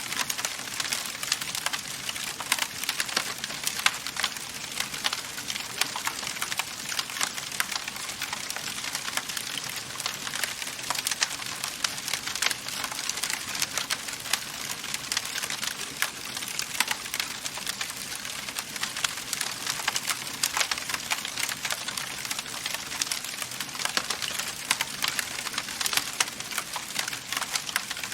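Wood fire crackling steadily in a fireplace: a constant soft hiss with dense, irregular snaps and pops throughout.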